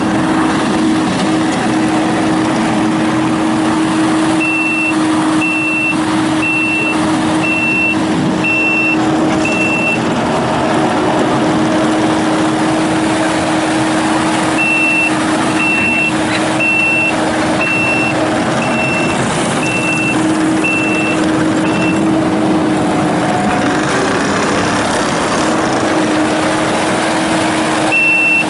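Kubota SVL95-2S skid steer's four-cylinder diesel engine running steadily while the machine is driven, with its backup alarm beeping at a steady rate whenever it reverses: a spell of beeps a few seconds in, a longer one in the middle, and another starting near the end.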